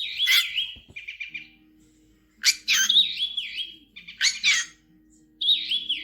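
Bird chirping in four bursts of high, quick chirps with wavering, up-and-down trills, over a faint low steady tone.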